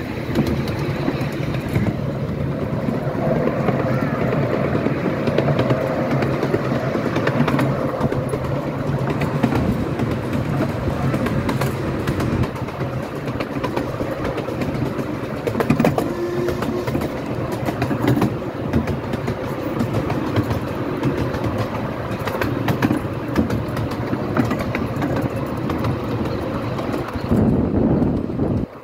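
A miniature railway train in motion, heard from on board: its wheels rumble steadily on the track, with a constant run of sharp clicks and rattles.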